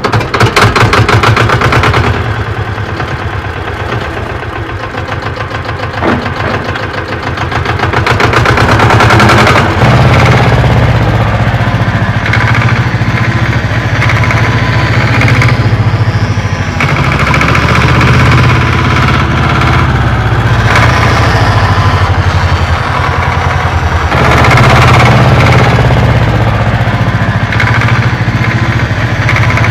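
Small motor running with a fast, even rattle, growing louder and softer by turns.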